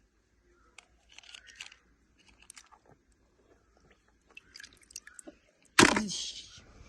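Small clicks and crunching handling noises, then a sudden loud noisy burst about six seconds in that fades away over a second.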